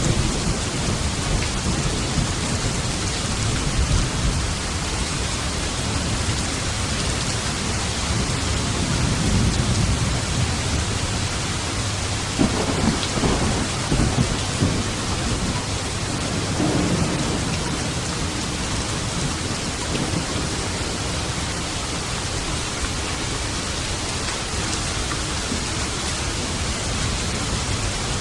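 Steady rain falling in a thunderstorm, with low thunder rumbling several times over it, the strongest rolls about halfway through.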